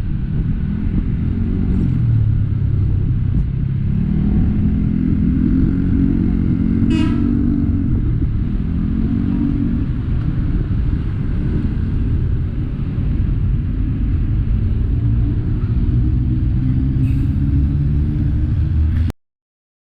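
Road vehicle engine running under way, its pitch rising and falling with the throttle, with a short horn toot about seven seconds in. The sound cuts off abruptly near the end.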